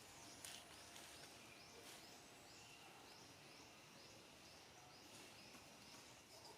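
Faint outdoor background with a small animal's short, high chirp repeated steadily about three times a second.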